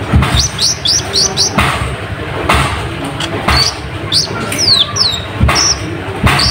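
Kolibri ninja sunbird calling: quick runs of short, high, sharp chirps that slide in pitch, in a few bursts. Several sudden dull thumps are mixed in between them.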